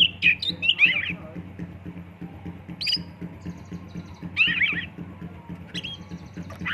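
Oriental magpie-robin (kacer) singing in short phrases of quick whistled notes that sweep up and down, with pauses between phrases, over a steady low hum.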